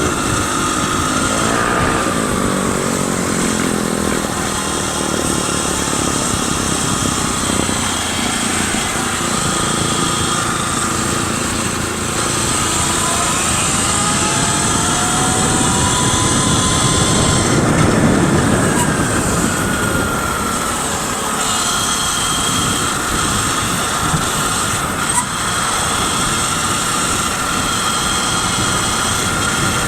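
Steady wind and traffic noise while riding along with a group of electric bikes, with faint whines that slowly rise and fall in pitch.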